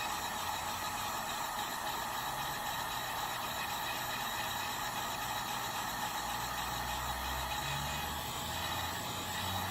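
Heat gun running steadily: an even airy fan hiss with a faint low hum beneath.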